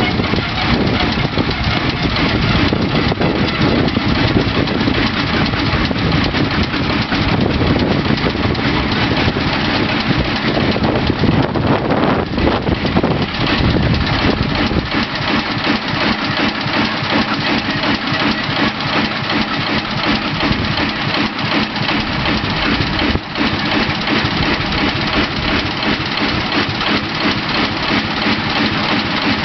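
Large Enterprise DSG-36 industrial diesel engine running steadily, not at full capacity after 30 years without being started. About fifteen seconds in, the deepest part of its sound drops back while it keeps running.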